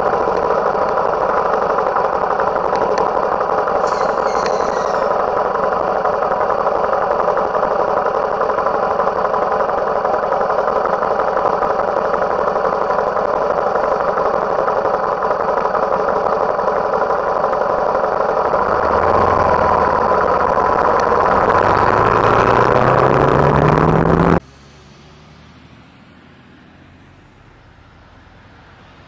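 A vehicle running, with loud, steady engine and road noise. The engine's pitch rises over the last few seconds as it speeds up, then the sound cuts off suddenly about 24 seconds in.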